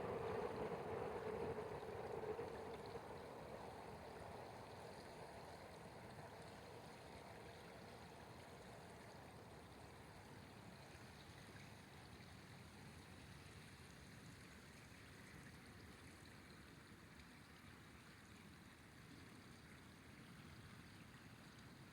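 River water flowing, an even rushing noise. It is louder for the first few seconds, then settles fainter and steady.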